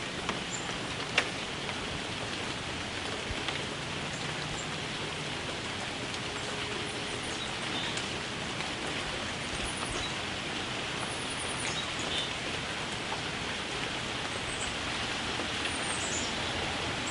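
Steady rain falling, an even hiss with a few sharper drop ticks close to the microphone, the loudest about a second in.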